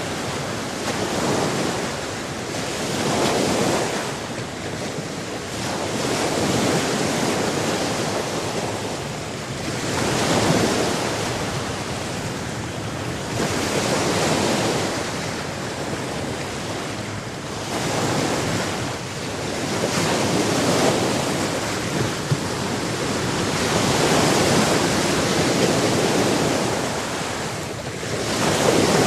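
Sea waves breaking and washing up, the rush of water swelling and falling back every three to four seconds.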